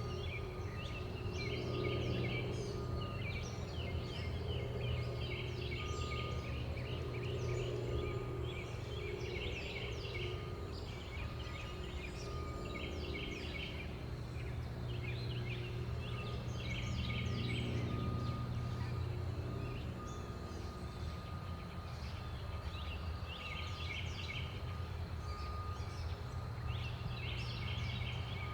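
Several small birds chirping and chattering in quick bursts of short, high notes, over a steady low hum.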